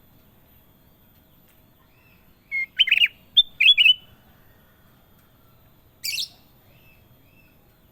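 Kutilang emas bulbul singing: two quick phrases of short, sliding whistled notes about two and a half seconds in, then a single harsher, higher call a couple of seconds later.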